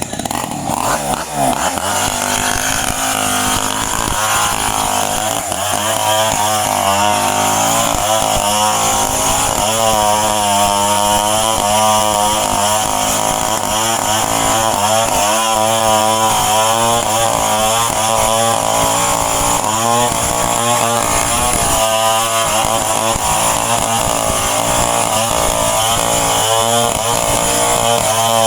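Two-stroke chainsaw running under load, cutting into a tree trunk, its engine pitch wavering up and down as the chain bites into the wood.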